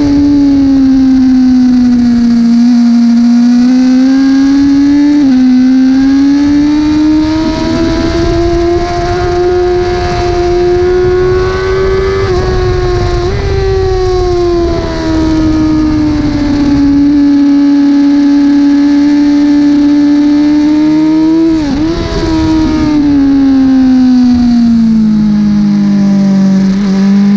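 A 1000 cc superbike engine at racing revs, its pitch rising and falling through the turns. The note breaks briefly at gear changes, about 5, 12 and 22 seconds in.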